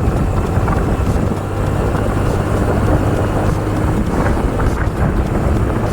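Motorcycle riding along, its engine running steadily under heavy wind buffeting the microphone.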